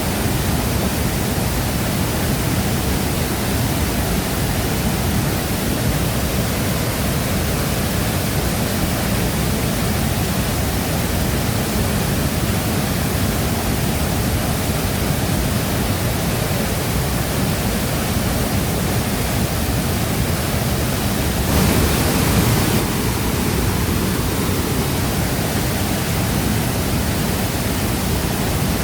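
Shifen Waterfall: a steady, dense rush of falling water, heaviest in the low end, briefly swelling louder for about a second near the three-quarter mark.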